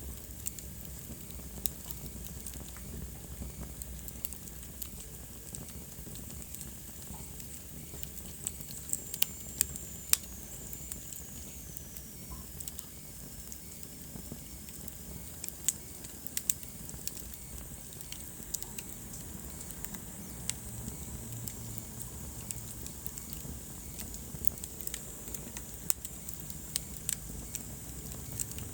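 Wood fire burning in a fireplace, crackling with sharp, irregular pops over a steady low rumble and hiss. A thin high whistle slides down in pitch about a third of the way through.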